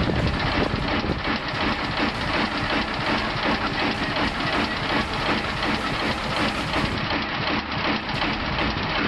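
Large old engine running steadily with a dense, rapid mechanical clatter.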